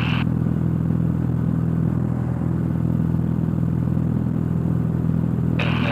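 Cessna 172's piston engine and propeller droning steadily at climb power, heard from inside the cockpit.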